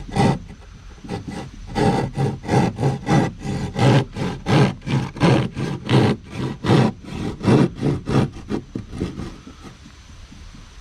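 Hand drywall jab saw (a pointed keyhole-style saw made for sheetrock) cutting through gypsum board in quick back-and-forth rasping strokes, about three a second, that slow and stop about nine seconds in.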